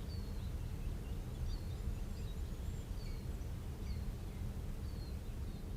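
Natural ambience: a steady low rumble with scattered short, high bird chirps and whistled slides repeating through it.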